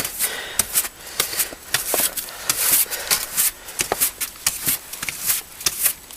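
A snow brush sweeping snow off a car in a quick, irregular run of brushing strokes.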